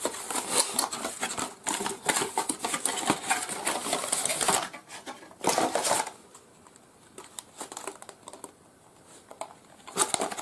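Paper and plastic packaging rustling and crinkling as it is handled and unpacked, in dense bursts for the first few seconds and again briefly around six seconds in, then quiet apart from a short rustle near the end.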